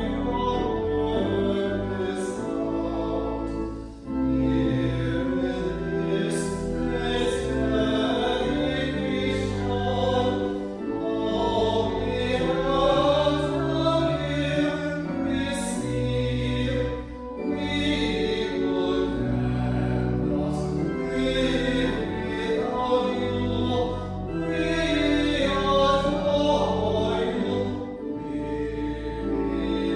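Choral music: a choir singing, with held notes changing about once a second, during a church worship service.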